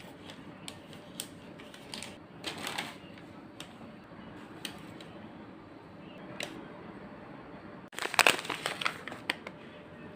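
Light clicks, taps and crinkling of small objects being handled, with a denser flurry of clatter about eight seconds in.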